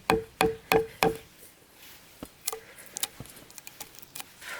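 A run of four sharp knocks, about three a second, each with a brief ringing tone, stopping about a second in. A few fainter scattered clicks follow.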